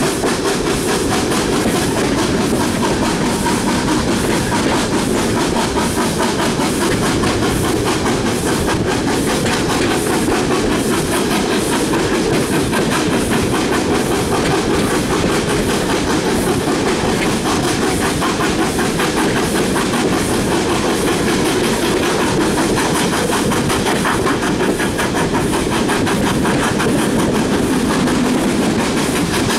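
Steam-hauled passenger train running along the line, heard from an open carriage window: a loud, steady rumble of the coaches with the clickety-clack of wheels over the rail joints.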